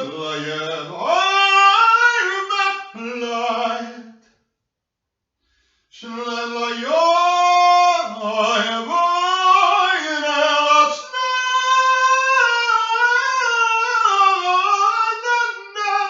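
A single voice singing unaccompanied, holding long notes and sliding between pitches, with a pause of about two seconds about four seconds in.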